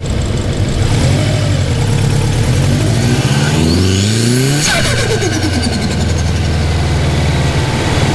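Subaru Impreza WRX STI with a custom billet VF48 turbo revving up from idle, the turbo whistle rising with it about halfway through. The throttle then snaps shut and the revs fall with a rapid flutter of compressor surge before the engine settles back to idle.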